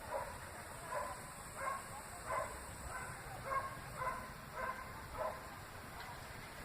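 Dog barking repeatedly, about one and a half barks a second.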